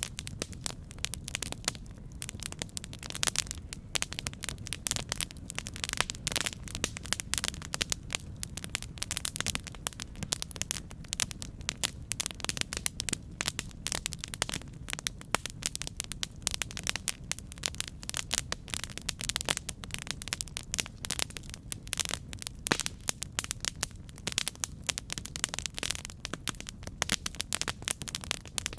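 Campfire burning with a steady low rumble and dense, irregular crackles and pops of burning wood.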